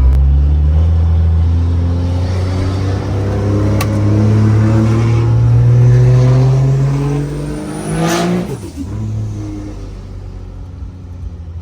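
Car engine accelerating, its pitch rising steadily for several seconds. About eight seconds in there is a brief whoosh and the engine drops to a lower, quieter run.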